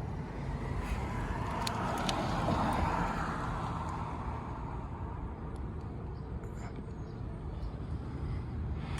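An engine running steadily at a low, even pitch, with a wider hiss that swells and fades about two to three seconds in.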